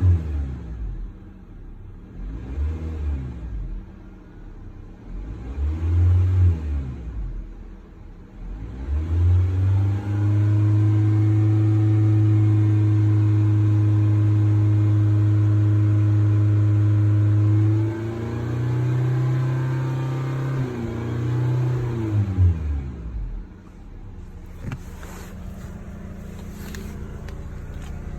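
2020 Honda Civic engine being revved: a few short blips of the throttle, then revs held high and steady for about eight seconds. The revs step down, fall back, and settle to idle near the end, with a few light clicks over the idle.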